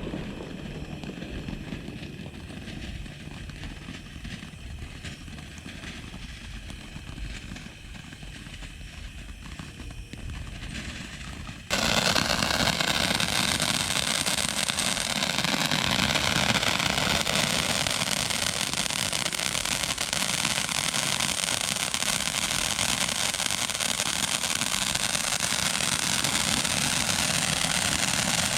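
A 500 gram firework fountain spraying with a steady hissing rush: fairly quiet for the first twelve seconds, then abruptly much louder and denser, the steady rush keeping on to the end.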